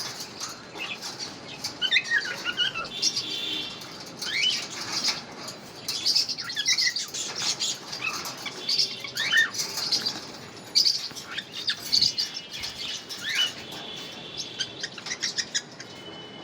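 Pineapple conures, a colour mutation of the green-cheeked conure, making short chirps and calls scattered throughout, with wing flapping and fluttering.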